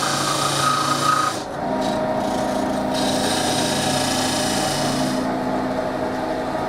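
Wood lathe running with a tool scraping into the spinning wood of a turned cup, over the steady hum of the lathe. The high-pitched scraping eases off about a second and a half in, comes back, and eases again near the end.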